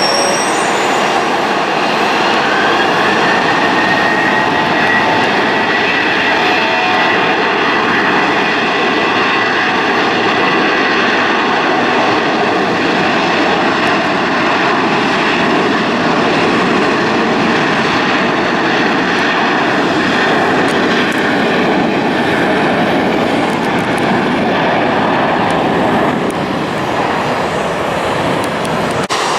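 Jet airliner's engines running loud and steady, a dense rushing roar with a thin whine that rises slightly in the first few seconds, holds, then fades about twenty seconds in.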